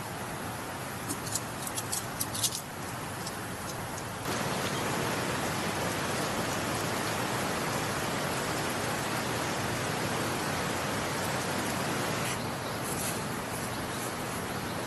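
Mountain stream flowing steadily, louder after a cut about four seconds in. A cluster of short, sharp high ticks comes about a second in, and short high bird chirps come near the end.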